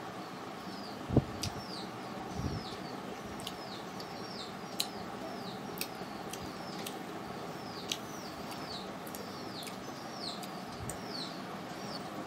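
Small birds chirping in the background, short falling chirps about two a second, over a steady background noise. A sharp knock about a second in and faint clicks as fingers work rice on the plate.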